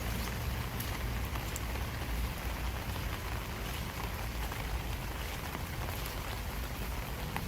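Steady summer rain falling on a field path, an even hiss with scattered drops ticking close by. A low rumble underneath fades out about two seconds in.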